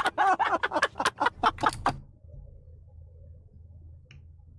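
A man laughing in quick repeated bursts for about two seconds, then a faint low hum.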